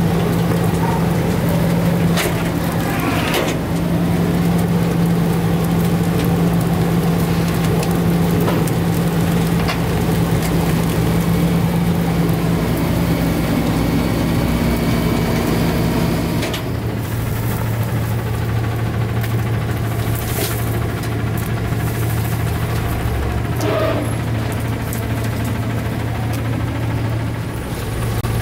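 CNG-powered Autocar ACX garbage truck with a Heil Durapack 5000 rear loader, its engine running steadily at raised speed and then settling to a lower speed a little past halfway. A few short knocks and clatters sound over the engine.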